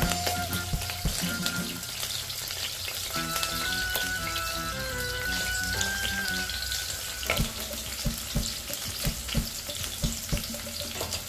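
Sliced shallots and garlic sizzling in hot oil in a stainless steel pot, sautéed until fragrant, while a wooden spatula stirs them. There are a few sharp knocks of the spatula against the pot in the second half.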